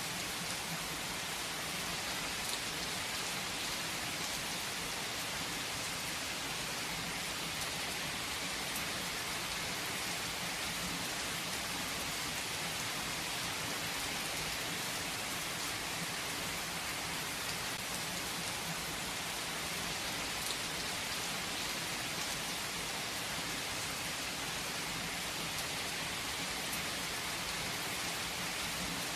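Steady rain falling: an even hiss, with faint ticks of single drops here and there.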